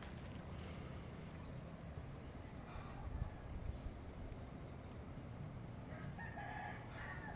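A rooster crowing faintly once, about six seconds in, over quiet rural ambience.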